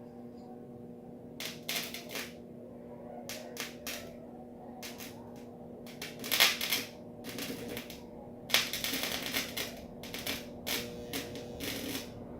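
Microwave-oven transformer humming steadily while it heats a piece of iron, with irregular bursts of crackling from about a second and a half in, loudest around the middle and again a little later.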